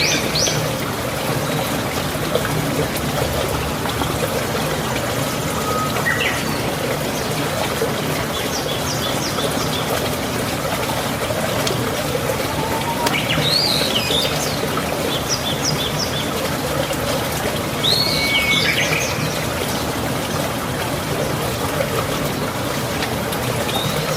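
Scattered short, high bird chirps, a few at a time every few seconds, over a steady rushing hiss.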